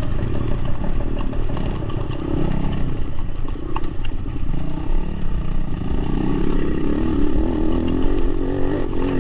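Motorcycle running under way on the road, a steady engine rumble with road noise.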